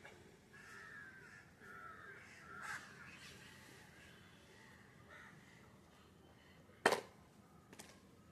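Birds calling several times in the first three seconds, then a single sharp click or knock near seven seconds, the loudest sound, with a few fainter clicks just after.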